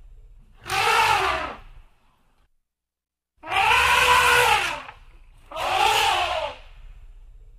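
African elephant trumpeting three times, each call about a second long, rising and falling in pitch. The middle call is the longest.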